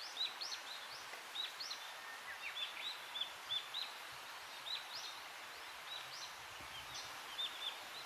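Birds calling: a steady run of short, high chirps, a few a second, over a faint steady hiss.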